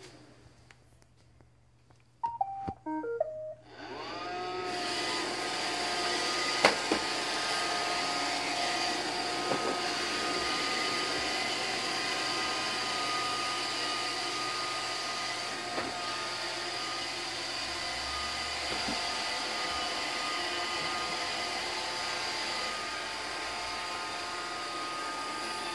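iRobot Roomba 620 robot vacuum playing a short tune of stepped beeping notes. Its vacuum motor and brushes then spin up with a rising whine about four seconds in and run steadily, with a few sharp knocks soon after.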